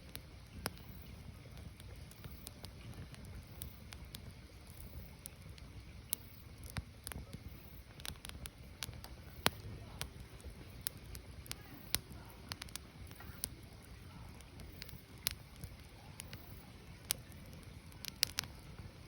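Burning firewood crackling: irregular sharp pops and snaps over a low, steady rumble of the fire, with a few louder pops now and then.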